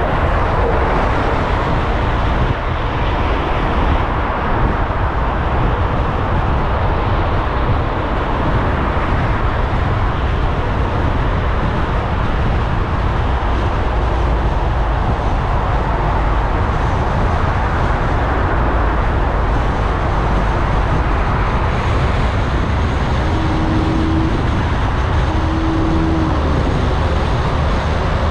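Steady road and engine noise of a car driving through city traffic, a continuous low rumble with tyre hiss. Near the end a few short, faint tones sound over it.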